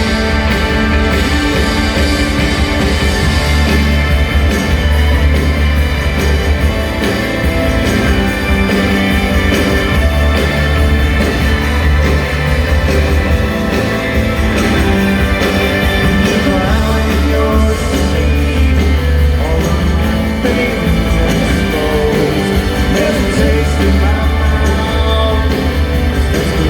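Rock band playing live and loud, with a heavy bass line and drums and a voice singing at times.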